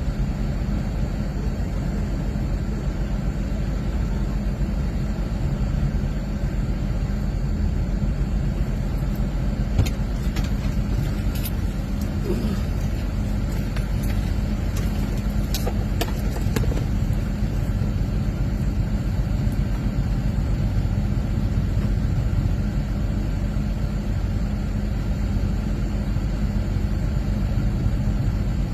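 Engine running steadily at a constant speed, with a handful of sharp clicks or knocks about midway.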